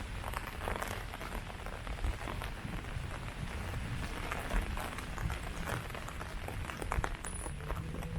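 Steady rain falling on tree leaves: an even wash of rain with many separate drop hits close by.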